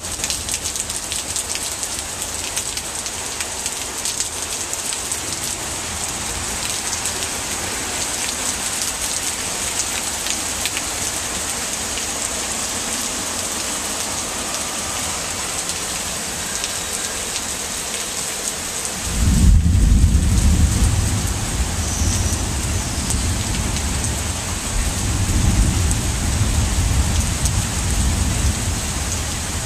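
Heavy hurricane rain falling steadily in a constant hiss. About two-thirds of the way through, a loud deep rumble sets in suddenly and keeps swelling and easing.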